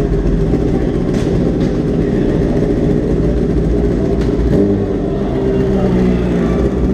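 A vehicle engine running loudly and steadily, its pitch shifting about five seconds in.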